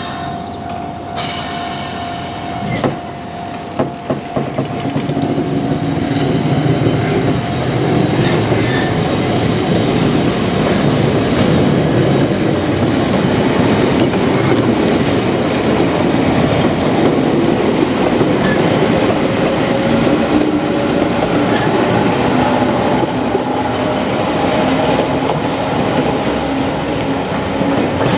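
A Toyama Chiho Railway electric train, one unit pushing a broken-down unit, running on the line. A few wheel knocks come about four seconds in, then a steady loud rumble with a faint whine that slowly rises in pitch.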